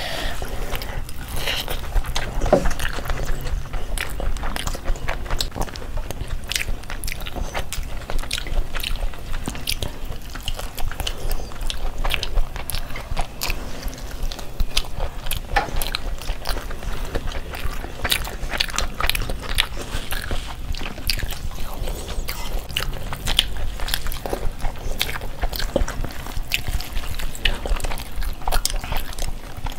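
Several people chewing and biting into food, with many quick, wet mouth clicks and smacks.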